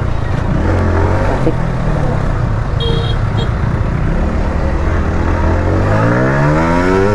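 A Yamaha R15 V3's single-cylinder engine runs at low speed through traffic, then revs up in a rising whine near the end as the bike accelerates.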